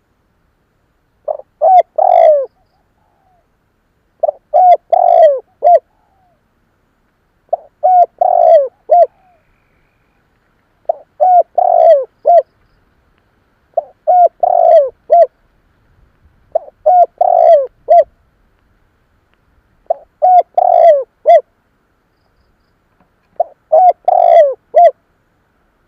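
Spotted dove cooing, a repeated multi-note coo phrase given about every three seconds, eight times.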